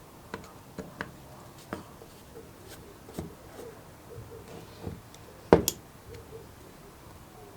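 Tools and small parts being handled during hand work on a carburetor: scattered light clicks and taps, with one much louder knock about five and a half seconds in.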